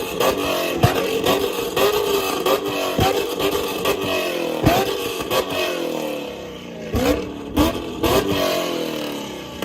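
A performance car engine being revved again and again, its pitch falling away after each blip. About a dozen sharp cracks are heard among the revs.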